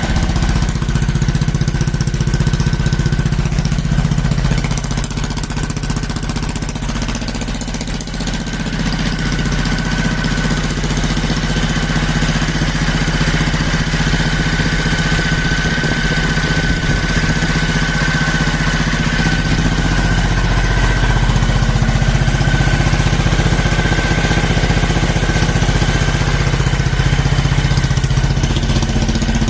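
Snowmobile engine with a split straight-through exhaust, running steadily at idle. It drops a little in loudness around five to eight seconds in, then picks up again.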